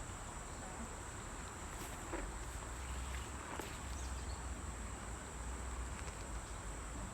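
Insects chirring steadily at a high pitch, over a low rumble and a few faint clicks.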